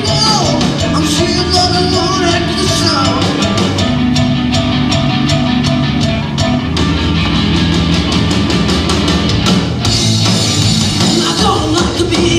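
A live rock band playing loud, with a drum kit keeping a steady beat.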